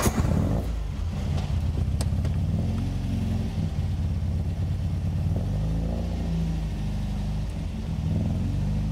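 MG MGA's four-cylinder engine running at idle just after starting, its revs rising and falling a little. There is a single sharp click about two seconds in.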